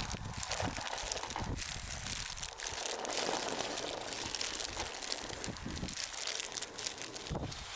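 Irregular crinkling and crackling, many small sharp clicks, with a denser rustling stretch about three to four seconds in.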